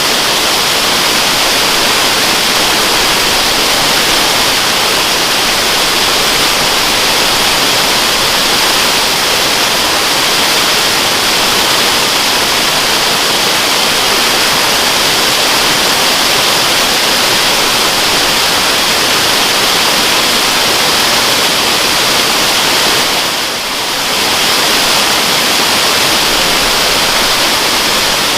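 Waterfall rushing in a steady, loud hiss with no distinct splashes; the level dips briefly once, about three-quarters of the way through.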